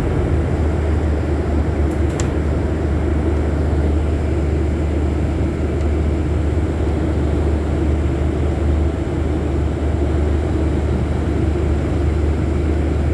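Scania city bus's diesel engine running steadily, a deep low rumble with no speech over it.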